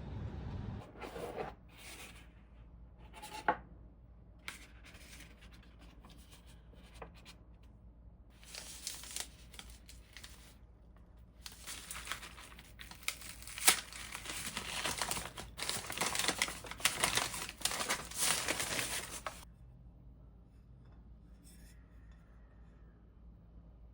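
Packaging crinkling and tearing as it is handled and opened, in scattered rustles at first, then a dense run of crackling with a few sharp snaps before it stops near the end.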